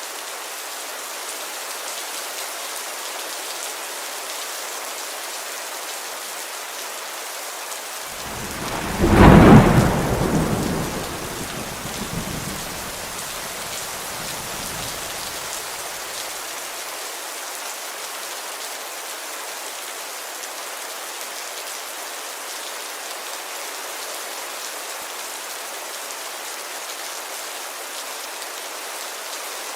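Steady rain pattering on a window, with one thunderclap about eight seconds in that peaks sharply and then rumbles away over several seconds.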